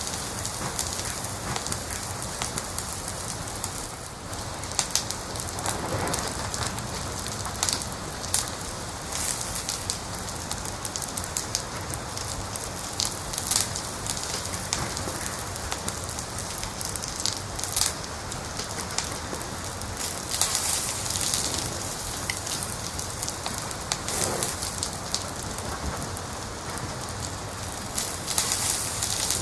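Wood fire crackling: a steady hiss with irregular sharp pops and snaps, several of them louder.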